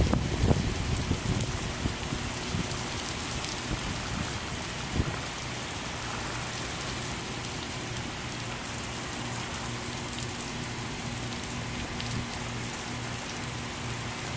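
Heavy rain pouring steadily, with a brief low rumble near the start.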